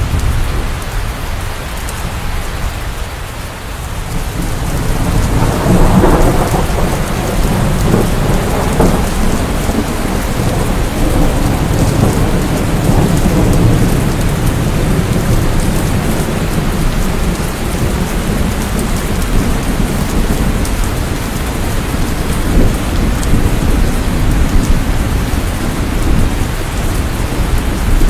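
Steady rain falling, with thunder rumbling underneath. A long roll of thunder swells about five seconds in and rolls on through the rain.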